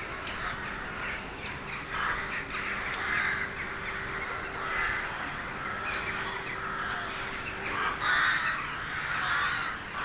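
A large flock of crows cawing continuously, many birds calling over one another, loudest about eight seconds in.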